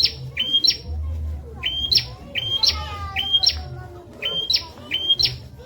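Prenjak (prinia) calling over and over: a short sharp note jumping into a quick rising sweep, repeated about twice a second, with a brief falling twitter in the middle. A low hum runs underneath.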